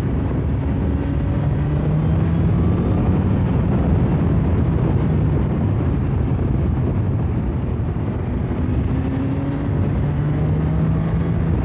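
BMW S1000XR motorcycle's inline-four engine running steadily under way, its pitch rising a little now and then with the throttle.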